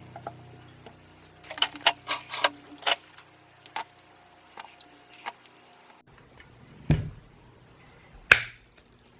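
Clicking and rattling of wires, clips and small metal parts handled while an LED lamp is hooked up to a transformer, with a quick run of clicks in the first few seconds and two louder knocks near the end.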